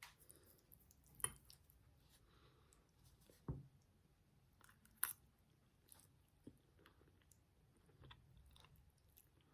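Faint sounds of a person eating a mouthful of spaghetti with tomato sauce: quiet chewing, with a few sharp clicks about a second in, about three and a half seconds in and about five seconds in.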